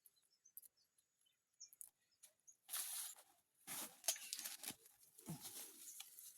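Faint rustling and crackling in several bursts from a little under halfway through, like plants being handled during harvesting, with a few faint bird chirps at the start.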